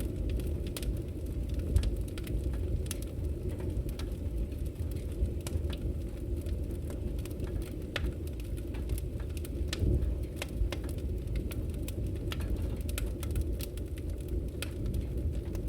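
Wood fire crackling in a fireplace: a steady low rush of flames with frequent small, irregular crackles and pops.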